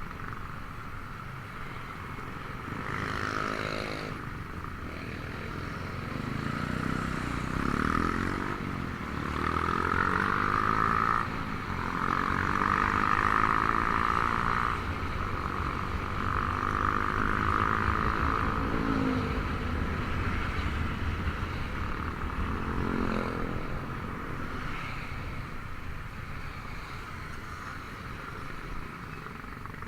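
Honda Vario 125 scooter's single-cylinder engine running with its automatic belt drive, rising in pitch several times as it accelerates and falling back as it eases off.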